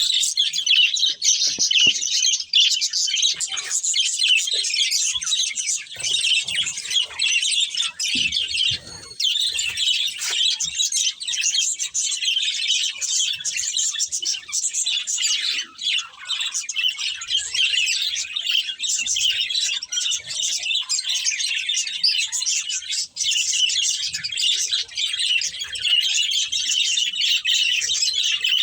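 Budgerigars chirping and warbling in a continuous, busy chatter.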